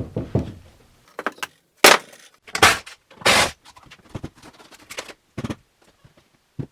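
A run of irregular knocks and bangs on wooden framing, about eight over several seconds, a few of them loud and a little drawn out, as lumber is knocked into place under a beam.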